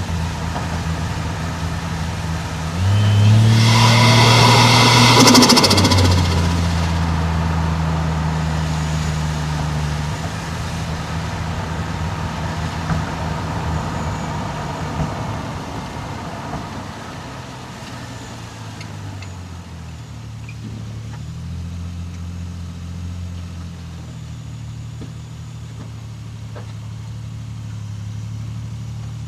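Toyota 1JZ-GTE turbocharged straight-six engine driving the car. About three seconds in it pulls hard for a few seconds with a loud rush on top of the engine note, then eases off and runs on at lower revs, its pitch shifting as the car cruises.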